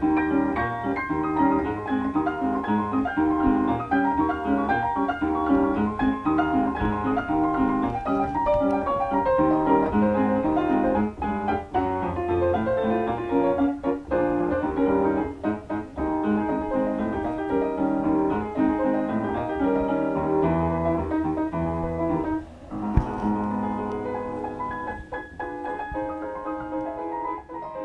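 Background piano music, a run of quick notes over lower sustained chords.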